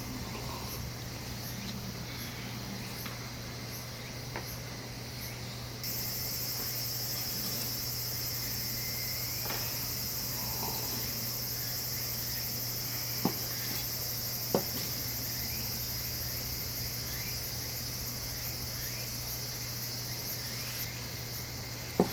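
Insects chirring in a steady, high-pitched chorus that swells about six seconds in and eases back near the end, over a low steady hum, with two sharp clicks around the middle.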